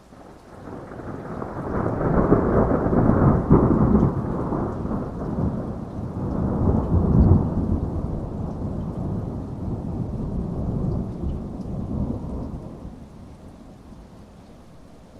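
A long roll of thunder over steady heavy rain. The rumble swells over the first two seconds, peaks about three and seven seconds in, and dies away by around thirteen seconds, leaving the rain.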